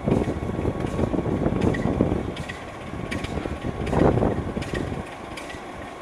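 Wind buffeting the microphone at the open window of a moving passenger coach, over the rumble of the train running along the track. The buffeting eases about five seconds in.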